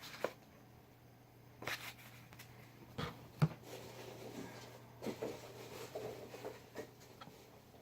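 Hands rummaging in a cardboard shipping box: a few light knocks, with soft rustling of packing peanuts and packaging later on.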